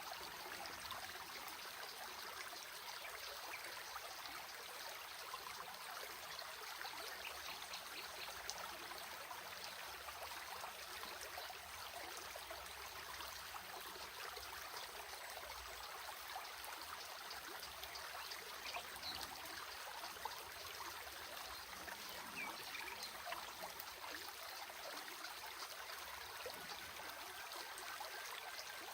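Small stream running over stones, with a steady trickling and babbling.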